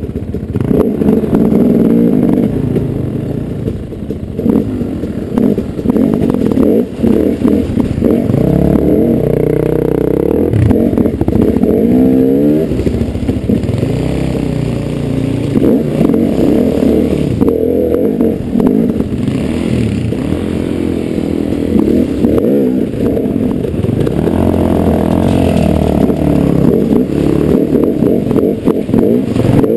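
Dirt bike engine running hard as the bike is ridden, its pitch rising and falling again and again as the throttle opens and closes, with some clattering over the ground.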